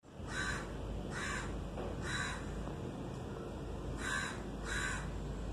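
A bird calling: five short harsh calls, three then a pause then two more, over a steady low hum.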